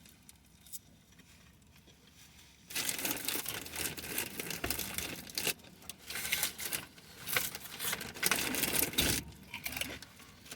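Food packaging crinkling and rustling in irregular bursts, starting about a quarter of the way in after a quiet stretch.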